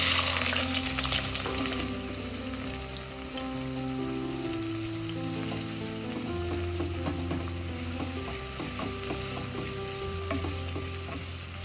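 Food hitting hot oil in a pan with a sudden loud sizzle that settles over a couple of seconds into steady frying, with the clicks of a spoon stirring the pan.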